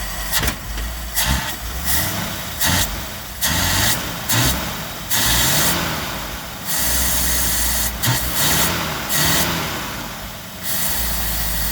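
1958 Dodge Power Wagon's V8 engine being revved in a series of throttle blips, the pitch rising and falling several times, with a few sharp cracks and an uneven, stumbling note. The owner puts the stumble down to the engine still being a little cold.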